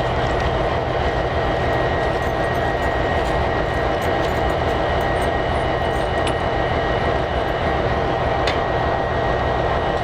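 Diesel locomotives running: a steady, loud engine sound with a low hum and a thin high steady tone.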